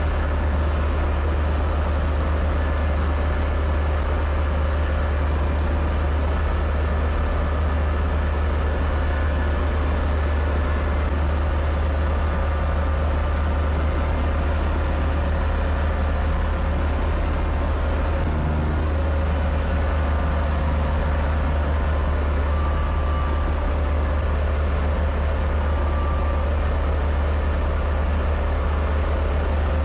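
Kubota tractor engine running steadily, a constant low drone.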